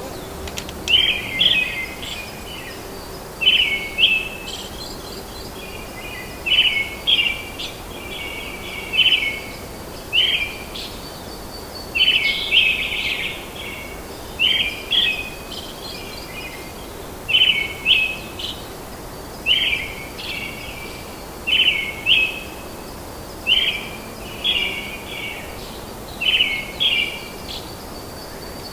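A bird singing the same short, chirpy phrase over and over, about every one and a half to two seconds, over a steady background hiss of forest ambience.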